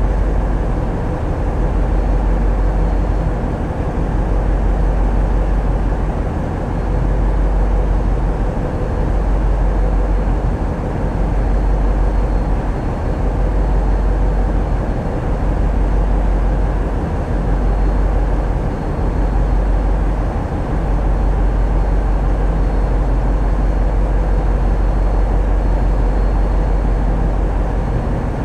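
Tugboat's diesel engines running steadily with a deep low rumble, the loudness easing and swelling every few seconds.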